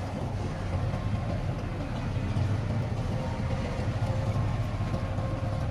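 Heavy diesel engine of earthmoving machinery running steadily: a continuous low rumble with a faint whine above it, growing a little louder about two seconds in.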